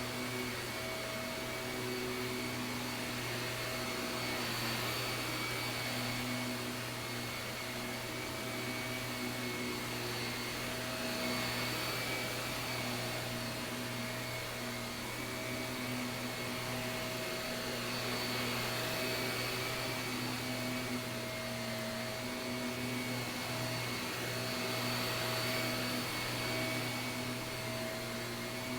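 Shark vacuum cleaner running steadily over carpet, a constant motor whine over a rushing of air, its level swelling and easing a little from moment to moment.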